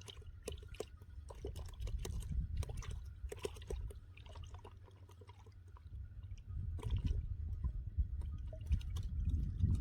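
Water splashing and dripping with many irregular small clicks, over a steady low rumble that grows louder after about six and a half seconds.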